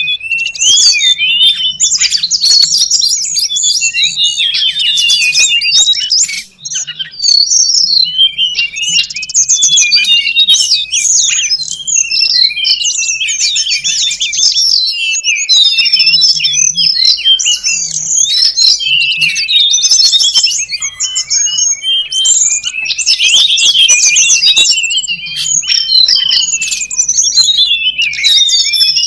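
Rapid, dense high-pitched chirping and twittering of small birds, a bird-lure recording of wild tledekan gunung, a flowerpecker, with a faint low hum beneath.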